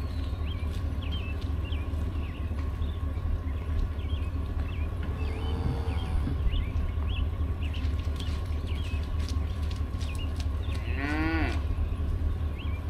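Cattle mooing: a faint moo midway and one loud moo near the end, over a steady low rumble.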